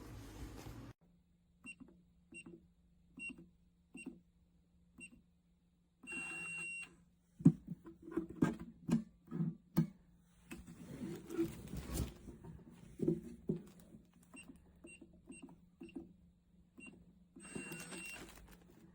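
Keypad of an electronic handgun safe beeping as its buttons are pressed: five short beeps, then one longer beep. Then several seconds of clicks and knocks from the safe's lid and latch being handled. Then another run of short key beeps and a second long beep near the end.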